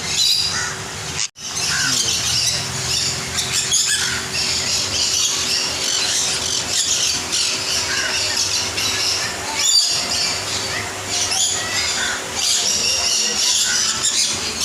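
A chorus of many aviary birds such as parrots and parakeets, squawking and chattering continuously, with many overlapping short, shrill calls.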